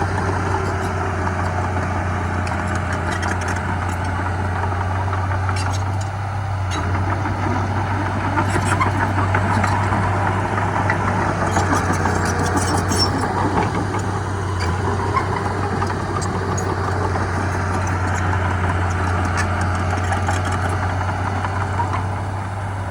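Heavy diesel engine of earth-moving machinery running steadily, with a constant low hum and a rumbling mid-range, and a few faint clicks and clinks scattered through the middle.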